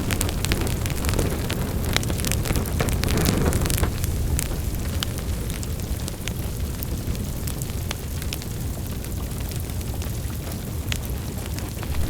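Wood fire crackling in a fireplace: a steady low rumble of the flames with many small sharp pops and snaps scattered irregularly throughout. The rumble is a little fuller for the first four seconds or so, then eases.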